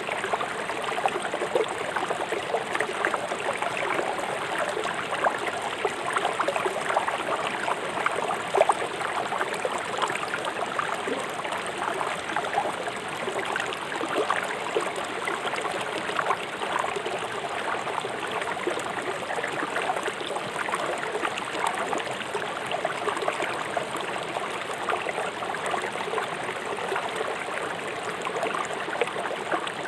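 River water rushing over rocks: a steady burble and splash of fast-flowing stream water.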